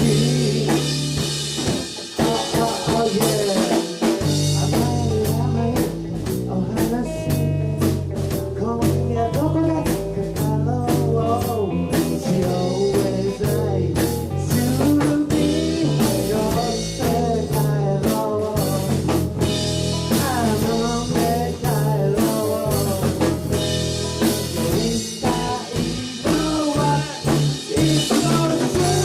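Rock band playing live: drum kit, bass and guitar in a loud, driving jam.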